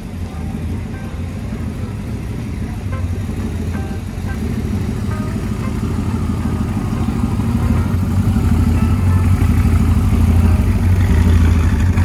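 Classic car's engine running at low speed, a deep sound that grows louder toward the end.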